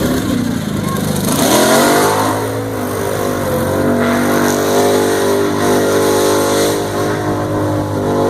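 Mud-bog vehicle's engine revving hard under load, its pitch climbing about a second in and then held at high revs.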